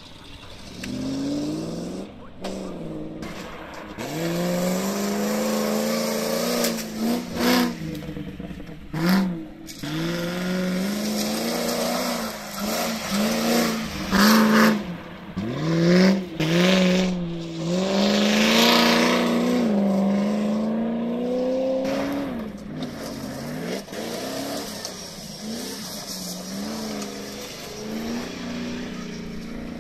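Land Rover off-road trial vehicles' engines revving hard and easing off again and again, the pitch climbing and dropping with each burst of throttle. Several short, sharp bursts of noise cut over the engine sound.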